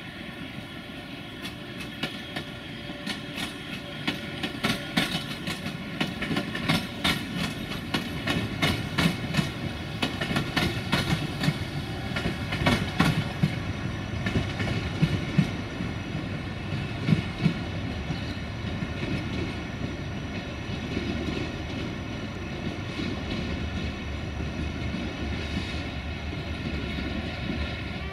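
A train rolling through a station, its wheels clacking over rail joints and points in quick, uneven runs for roughly the first half, then settling into a steady rumble.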